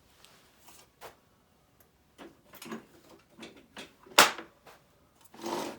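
Clicks and knocks of a table saw's rip fence being unlocked, handled and moved to a new position, with one sharp loud click about four seconds in and a brief scrape near the end.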